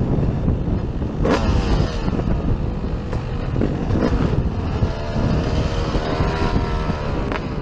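Motocross dirt bike engines revving, their pitch rising and falling as they race on the track, with wind buffeting the microphone. Two sharp cracks cut through, one about a second in.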